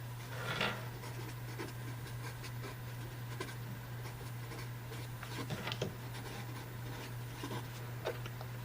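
Faint scratching of a marker-type pen tip writing on paper, with a few small ticks along the way. A steady low hum runs underneath.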